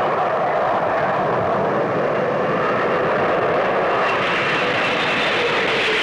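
Jet aircraft flying past, a loud, steady engine noise with no pauses that grows brighter and hissier over the last couple of seconds.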